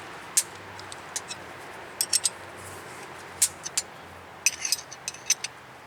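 Sharp metal clicks and clinks of a wrench working the clamp nuts on a brake-line flaring tool, coming irregularly and most thickly about two seconds in and again near the end.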